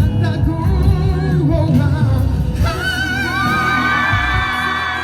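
Loud pop song with singing over a heavy bass line. About halfway through, a voice holds one long note with vibrato.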